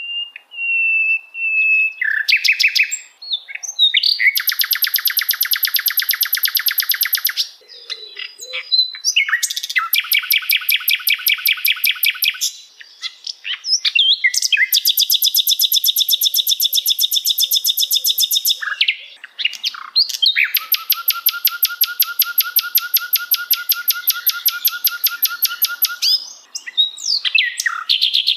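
Recorded songbird song: four long, high trills of rapid, evenly repeated notes, each held for several seconds, with short whistled notes and chirps between them.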